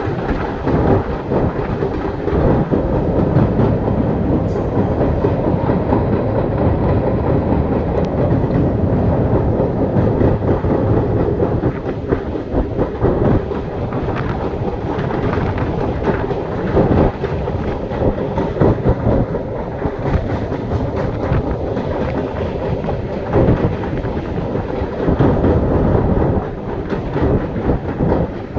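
Train running on its rails: a steady rumble with the wheels clattering now and then over the rail joints.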